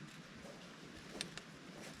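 Quiet background with two short, sharp clicks about a second in.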